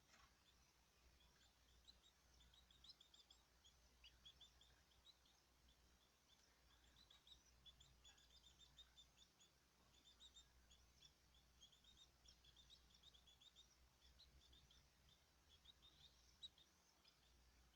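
Small caged birds chirping faintly: many short, high chirps in quick runs, on and off throughout.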